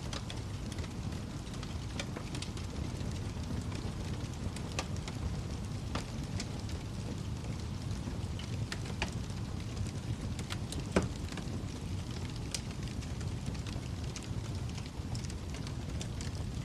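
Wood fire crackling in a fireplace: a steady low rumble of burning with scattered sharp crackles and one louder pop about eleven seconds in.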